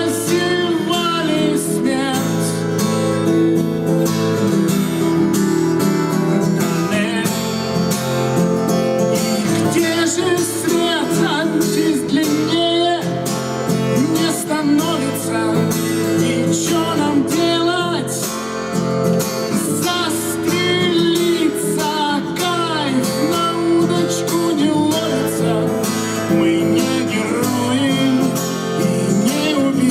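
Acoustic guitar playing with a voice singing along.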